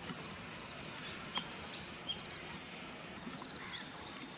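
Faint rural outdoor ambience: a steady high insect hum with a few short bird chirps, and a single light click about a second and a half in.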